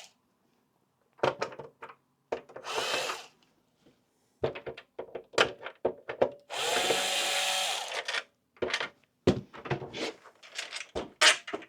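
Small electric screwdriver with a Torx T8 bit running in short spurts, once briefly and then for about a second, backing out PlayStation 5 case screws. Sharp clicks and taps of screws and tool come between the runs.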